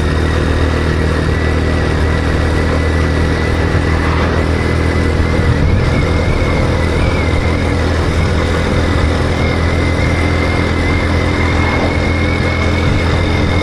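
Motorcycle engine running at a steady speed, with a thin, steady whine above it.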